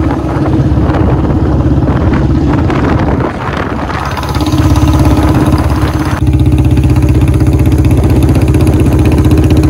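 Royal Enfield Bullet's single-cylinder engine running as the motorcycle is ridden along. The engine note drops about three seconds in, then picks up and grows louder again a few seconds later.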